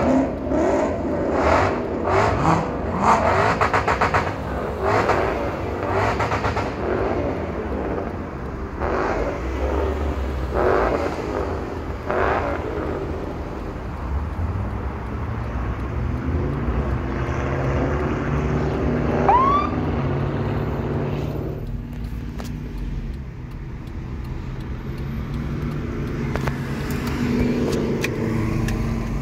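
Car engine revving in a series of loud bursts over the first dozen seconds, then settling into a steadier engine drone, with one short rising rev partway through.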